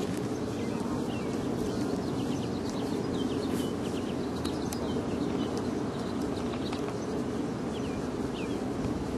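Steady outdoor background noise with birds chirping faintly in many short notes.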